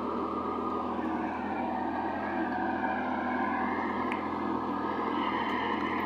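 Sonalika GT 26 mini tractor's diesel engine running steadily, its pitch wavering slightly up and down.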